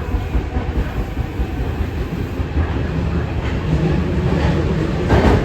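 Kita-Osaka Kyuko 9000 series electric train running, a steady low rumble of wheels on rail, with one sharp clack about five seconds in.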